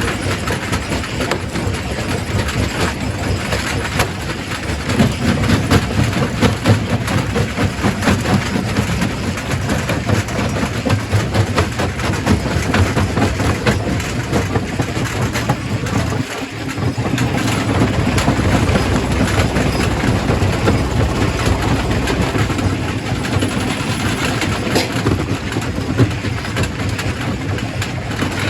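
Quarry primary rock crusher running: a steady heavy machine drone with dense clattering and cracking of rock being broken, dipping briefly just past halfway.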